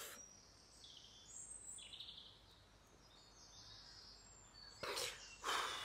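Faint woodland birdsong, a few short high chirps, over quiet outdoor background, with two short breaths near the end.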